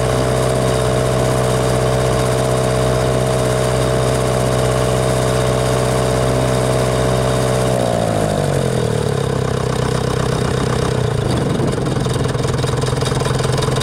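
Old diesel tractor engine running steadily at low speed, heard close up from a camera mounted on the tractor. About eight seconds in the engine note falls as it is throttled back, then holds at the lower speed.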